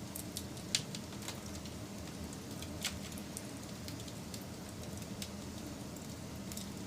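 Wood fire burning with scattered sharp crackles and pops, the loudest about a second in and near three seconds, over a steady low rumble.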